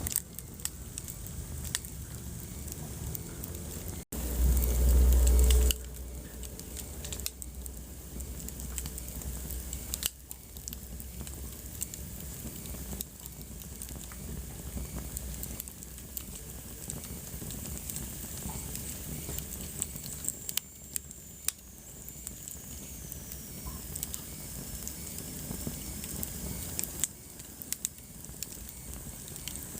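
Wood fire burning in a fireplace, with many small irregular crackles and pops over a soft steady hiss. About four seconds in, a loud low rumble lasts under two seconds. Later a faint high whistle slowly slides down in pitch.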